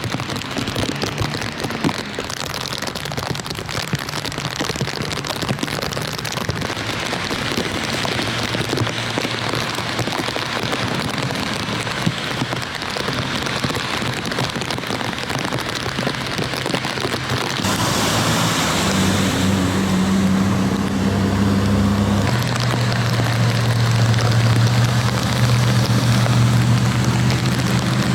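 Heavy rain falling in a steady dense hiss. About two-thirds of the way in the sound changes: the hiss brightens and a low steady engine hum joins and stays loud to the end.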